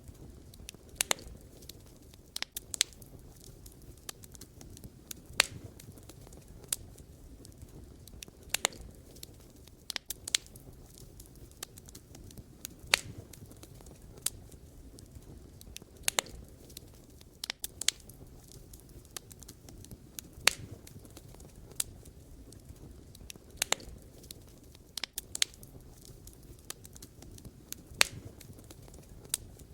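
Wood campfire burning, with sharp pops and snaps from the logs coming at irregular intervals, every second or two, over a low, steady rumble of the flames.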